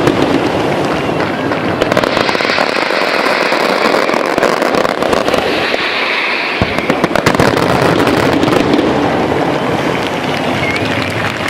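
Fireworks crackling densely and without a break, countless small pops running together into one continuous crackle, with a thin rising whistle near the end.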